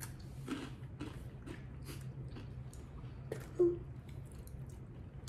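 Crunchy Twiglets wheat snack sticks being chewed: a run of irregular crisp crunches, with a brief 'mm' from one of the eaters about three and a half seconds in.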